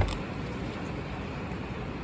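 Steady rushing noise of a thunderstorm's rain and wind, with one sharp knock right at the start.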